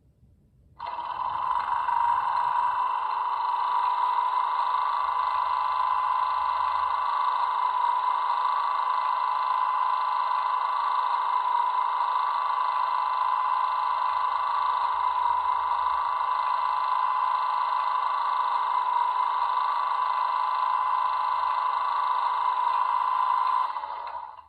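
Class 90 electric locomotive sound from a Zimo MX644 sound decoder, played through the model's small built-in speaker: a steady mechanical hum with a strong whine, starting suddenly about a second in and stopping just before the end.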